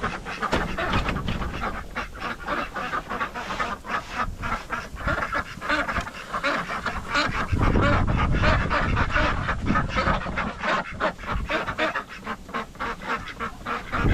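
Farm poultry calling over and over in quick, short calls, with wind rumbling on the microphone.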